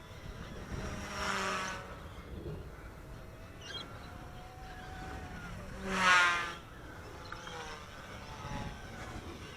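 Eachine E120S micro RC helicopter's brushless main motor and rotor whining as it flies past twice. The first pass is about a second in; the second, louder one comes around six seconds and drops in pitch as it goes by.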